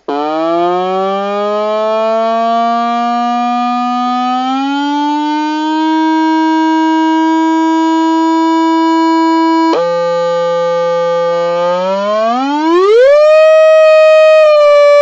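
Loud buzzy electronic tone, a single pitch with many overtones, sliding slowly upward and holding; about ten seconds in it drops suddenly low, then a couple of seconds later sweeps steeply up to a much higher pitch and holds there.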